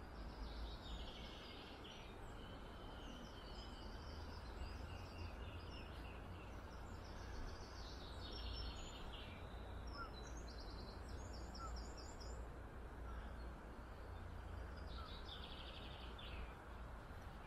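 Songbirds singing in short, high, trilled phrases every few seconds over a steady low rumble and hiss of outdoor background noise.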